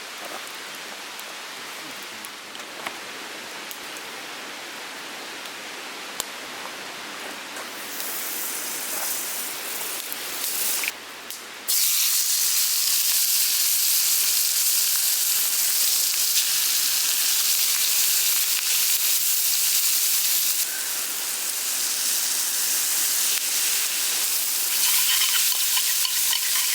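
Food frying in a hot pan, sizzling as a steady hiss with occasional pops. The sizzle becomes much louder after a sudden change about twelve seconds in.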